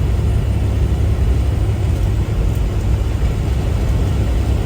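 Steady low rumble of a semi truck driving, engine and road noise heard inside the cab.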